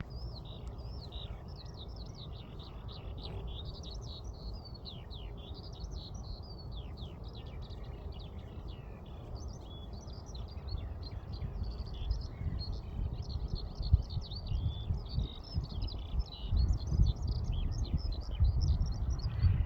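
A morning chorus of many small birds chirping and singing at once: a dense, continuous tangle of quick high notes. Underneath runs a low rumble that grows louder in the second half.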